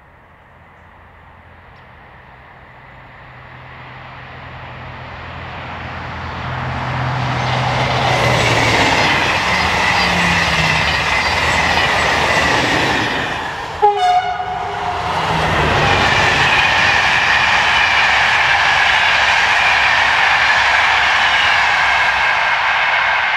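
A train approaching and passing at speed: the rolling noise builds over about eight seconds, a short horn blast sounds about fourteen seconds in as the front goes by, and then the wagons rumble past with a steady clickety-clack of wheels on the rail joints.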